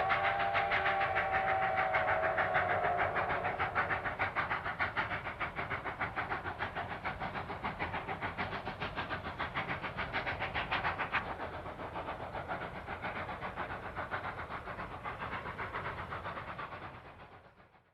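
Durango & Silverton narrow-gauge steam train: the locomotive's whistle holds a chord that ends about three seconds in. Under it and after it the moving train makes a steady, rapid rhythmic running sound, which fades out near the end.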